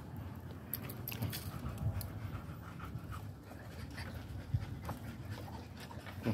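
A dog panting, with a few scattered clicks.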